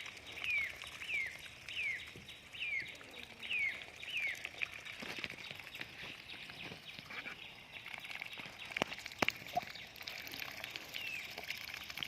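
Duck giving a run of short, high peeping calls that fall in pitch, about two a second, then falling quiet before a couple more near the end. Two sharp clicks come a little past the middle.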